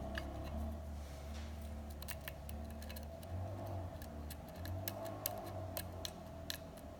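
Lock pick working the pins of a six-pin Schlage KIK-style lock cylinder: irregular small metallic clicks and ticks as the pins are probed and set, over a steady low hum.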